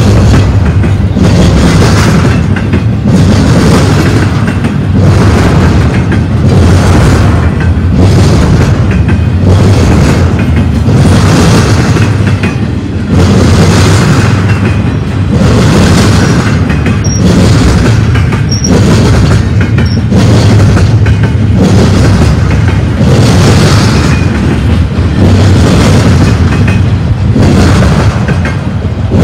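Double-stack intermodal container train rolling past close by: loud, steady wheel-on-rail noise that swells roughly once a second as each car's wheel sets go by. A few brief faint high squeaks come in around the middle.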